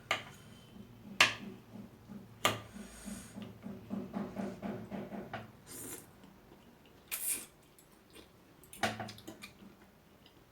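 Close-up eating of instant noodles: a few sharp clicks of a utensil on the bowl, a stretch of fast, even chewing, and short slurps.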